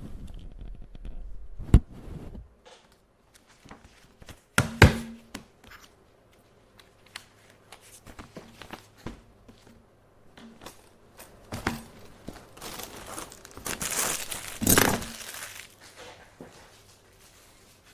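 Paper being handled and rustled, with scattered light clicks and a few sharp knocks; a longer stretch of rustling builds up near the end and peaks about fifteen seconds in.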